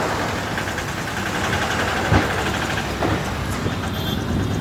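Street traffic noise with vehicle engines running steadily, and a sharp bang about two seconds in.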